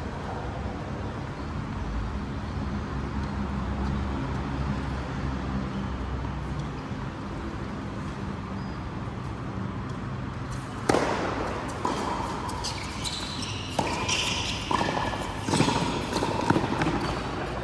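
Racket-sport play on an indoor court: steady hall noise at first, then from about eleven seconds in a run of sharp ball hits and short squeaks of shoes on the court floor.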